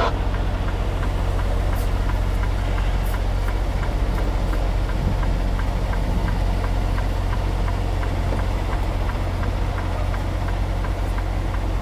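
Semi truck's diesel engine running at low idle, a steady low drone with a faint, even ticking clatter, as the rig creeps backward.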